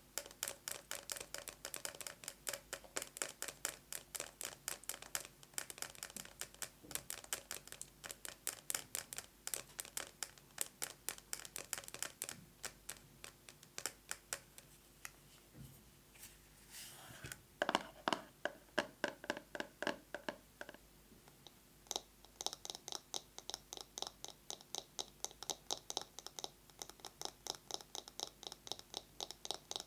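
Fast fingernail tapping with long, manicured nails, first on a plastic box with a metal cover. About two-thirds of the way through, the tapping breaks off briefly and resumes with a brighter, different tone, as it moves to a bamboo massage brush.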